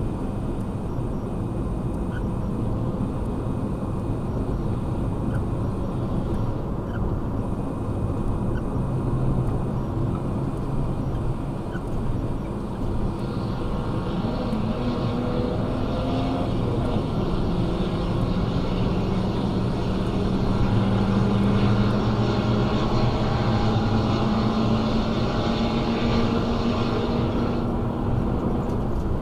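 Lifted Jeeps accelerating slowly from a stop, their engine notes rising gradually over about twenty seconds, with tyre and road noise.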